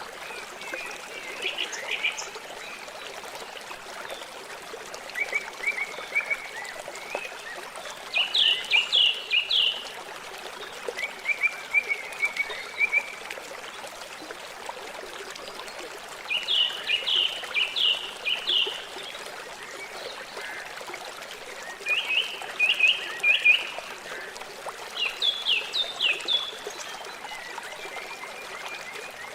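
River water flowing with a steady rushing trickle, while birds call over it in repeated quick series of high, chirping notes every few seconds.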